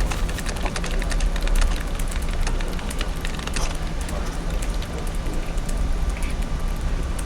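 Office background ambience: indistinct chatter with scattered small clicks and clatter over a steady low hum.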